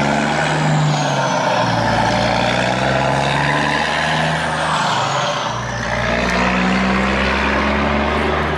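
A heavy truck engine running steadily and loudly, its pitch wavering slightly.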